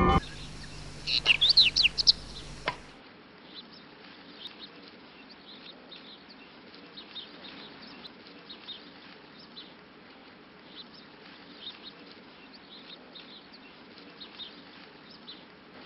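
Birds chirping: a quick run of loud chirps about a second in and a single click just after, then scattered faint chirps over a low steady background hiss.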